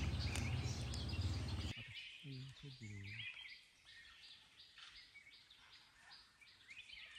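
Birds chirping repeatedly in short high notes. A loud low rumble covers them at first and cuts off abruptly just under two seconds in. About two to three seconds in come three short low-pitched notes.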